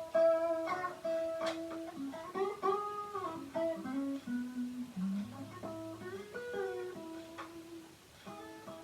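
Electric Strat-copy guitar played through a distortion pedal into a mini amp head and small cab: a single-note lead line of held notes, bent up and released, with a rising slide about five seconds in.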